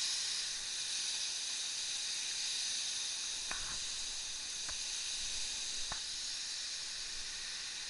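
Waterfall pouring: a steady hiss of falling water and spray. Three faint clicks come through it in the second half.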